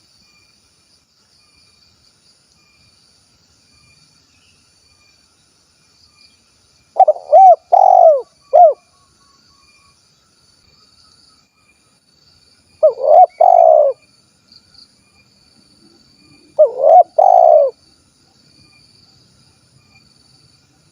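Spotted dove (tekukur) cooing in the 'kuk 1' style: three short phrases of rounded, arching coos a few seconds apart. The first phrase has about four notes, the later ones two or three. A faint steady insect buzz runs underneath.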